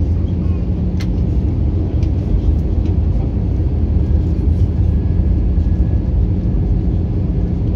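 Steady low rumble of engines and airflow heard inside the passenger cabin of an Airbus A321-200 airliner, with a few faint clicks.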